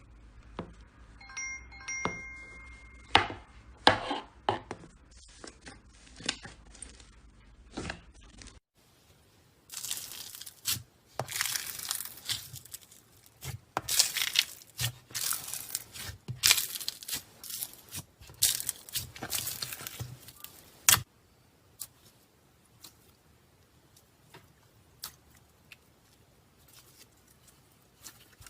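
Slime being squeezed, poked and stretched by hand, making sticky clicks and pops. About a third of the way in, a stretch of loud crackling, tearing sounds begins and lasts a dozen seconds before settling back to scattered soft clicks. A few faint ringing tones sound near the start.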